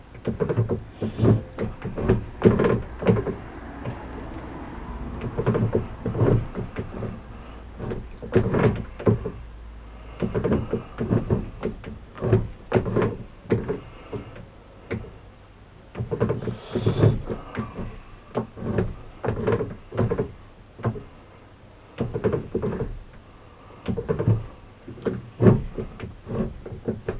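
Irregular metal clunks and knocks from a lathe being worked by hand, a few every couple of seconds, with a low hum under them for about the first seven seconds.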